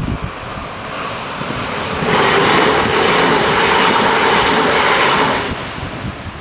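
DB Class 422 electric multiple unit passing over the crossing: the rush of its wheels on the rails swells from about a second in, is loud for about three and a half seconds from about two seconds in, then dies away as the train clears.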